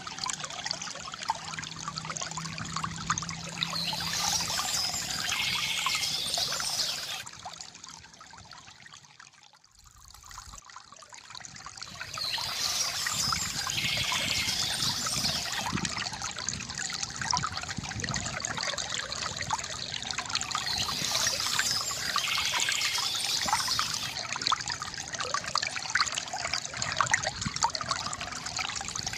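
Water trickling and splashing from a bamboo fountain, a steady gurgling flow. It fades almost away about ten seconds in, then swells back to full.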